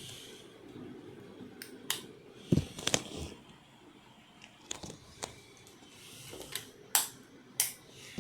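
KDK ceiling fan running with a faint steady hum, while about seven sharp clicks and knocks come at irregular intervals, some close together.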